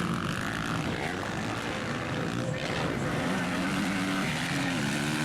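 Motocross bike engines revving, their pitch climbing and dropping repeatedly as the riders open and close the throttle and shift.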